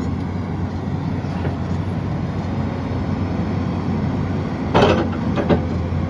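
Excavator's Cummins diesel running steadily under work. About five seconds in there is a loud knock, then a smaller one just after.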